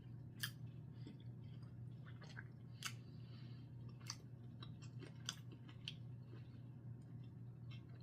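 A person chewing rare steak, with faint scattered clicks over a low steady hum.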